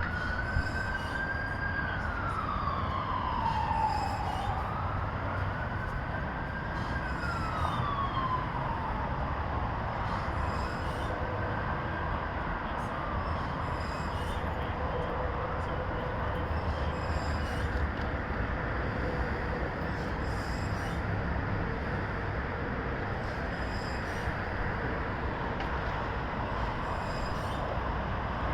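Emergency vehicle siren in a slow wail, rising and falling about every five seconds and fading away about twelve seconds in, over steady traffic noise; afterwards a faint steady tone remains.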